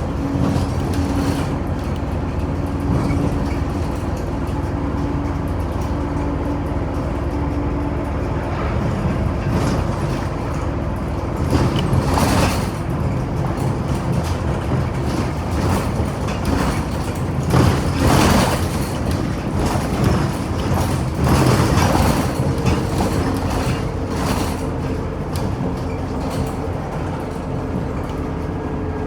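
Inside a Scania Omnicity city bus on the move: a steady engine hum and road rumble, with a few brief louder rushes of noise around the middle.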